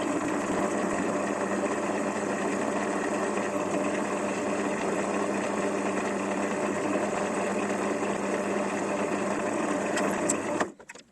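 Drill press running steadily, drilling aluminium with a 4.2 mm bit, the tap-drill size for an M5 thread. It stops suddenly shortly before the end.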